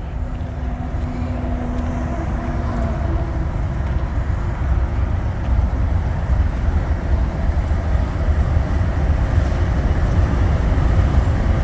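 Slow-moving intermodal freight train rolling past: a steady low rumble that grows gradually louder.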